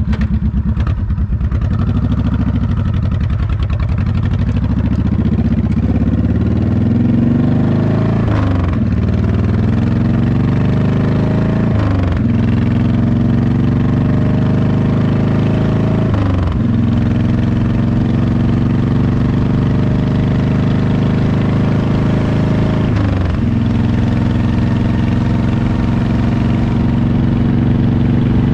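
Motorcycle engine accelerating through the gears: the revs climb and then drop sharply at each of four upshifts, the gaps between shifts growing longer, before it settles into a steady cruise.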